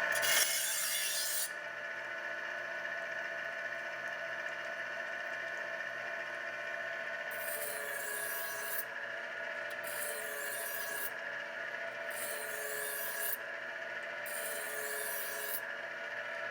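Tru Hone HR8 knife honer running with a steady motor hum, as a knife blade is drawn through its honing wheels with a rasping sound. The first stroke comes at the start, and about five more follow, each lasting a second or so and coming about every two seconds, starting around seven seconds in.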